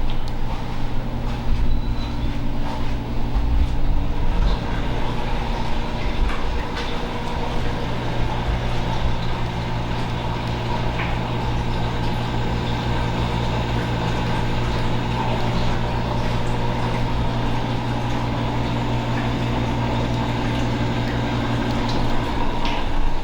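A steady mechanical hum of constant pitch, like a running motor, holding level throughout with a slight swell near the end.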